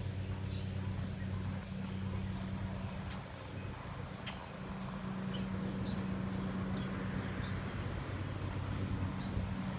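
Small birds giving short, high chirps now and then, over a steady low mechanical hum.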